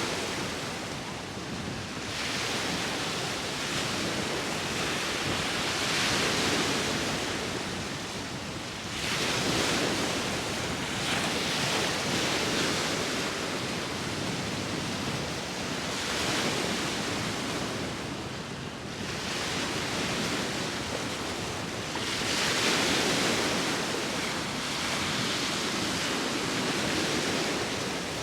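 Sea waves breaking and washing onto the shore with wind, in a continuous rushing that swells and falls back every three to four seconds as each wave comes in.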